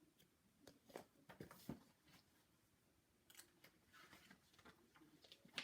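Near silence with faint rustles and small clicks of a picture book's paper pages being handled and turned, the sharpest click near the end.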